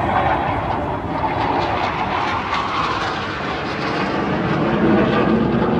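Jet aircraft flying past, its engine noise a loud continuous rush whose pitch slowly falls as it goes by.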